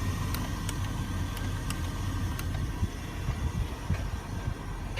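A steady low engine rumble, with faint ticks about three a second that fade out after the first couple of seconds.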